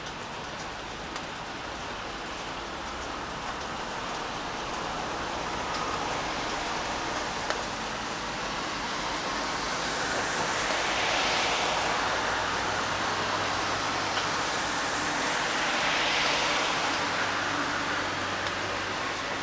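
Steady rain hiss, with two vehicles passing on a wet road: each a tyre swish that swells and fades, the first about halfway through and the second a few seconds later.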